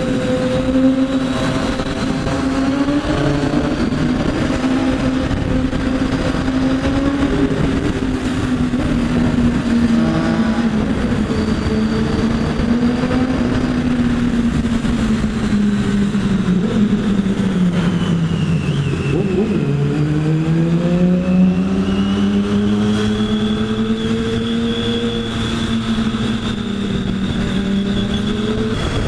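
Sport motorcycle engine running steadily at high revs while being ridden. About two-thirds of the way through, the revs drop, then climb back up.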